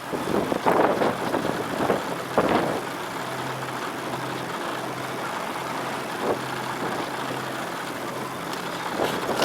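Sandstorm wind rushing over the microphone as a steady hiss, with a low steady hum of a running vehicle engine joining about three seconds in.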